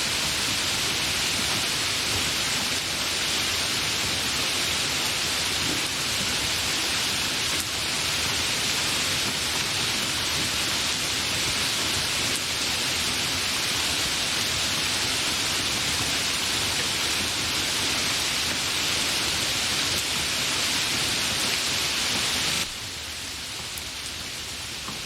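Steady, dense rain falling and pattering on surfaces, an even hiss with no distinct drops standing out. Near the end the sound suddenly becomes quieter and thinner, as at an edit in the recording.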